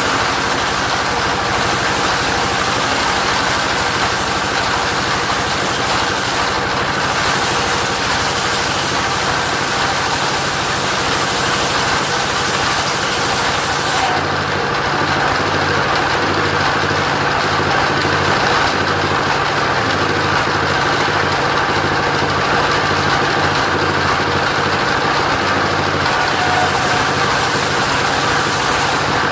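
Engine of a mobile sawmill running steadily. About halfway through, the higher hiss above it eases while the engine note carries on.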